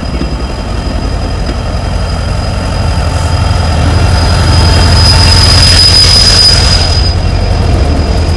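Train rolling past with a low rumble and a steady high-pitched wheel squeal, which grows louder about four seconds in and eases near the end.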